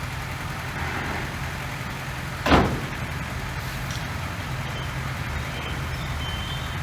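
Heavy diesel construction machine engine running steadily, with a single loud bang about two and a half seconds in.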